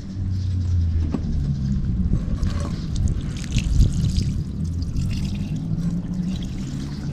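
Water pouring and splashing as a water heater's inner tank is rinsed out to wash away rust, with a steady low hum underneath.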